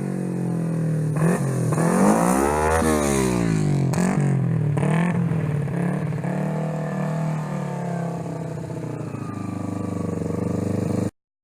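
2004 Kawasaki Ninja 250's parallel-twin engine through a slip-on exhaust muffler, idling and being revved: one rev rising and falling about two to three seconds in, two short blips near four and five seconds, then back to a steady idle before the sound cuts off suddenly near the end.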